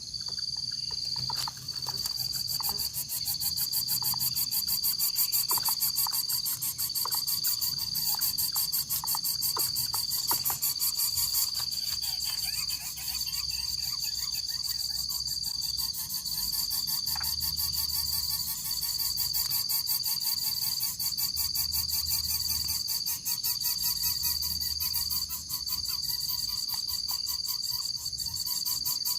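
Steady high-pitched insect chorus, crickets trilling without a break, with a few faint chirps and ticks beneath.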